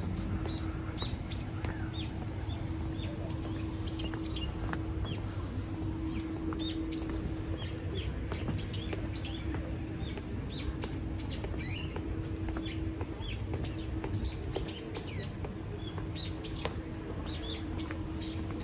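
A flock of small birds chirping and twittering, many short quick chirps overlapping one another throughout, over a steady low rumble and a faint steady hum.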